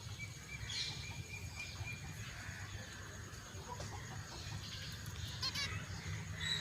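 Birds chirping and calling in short notes, with a quick trill about five and a half seconds in, over a steady low rumble.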